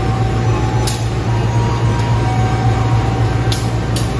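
Steady low rumble and hum of a moving passenger train car, with a few short, sharp ticks.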